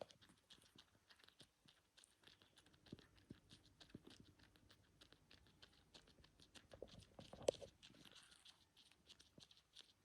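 A kitten suckling hard: faint, rapid wet smacking and sucking clicks, with one sharper click a little after seven seconds in.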